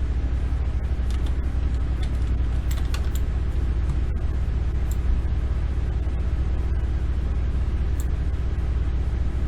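Steady low hum of background noise, with a few faint clicks scattered through it.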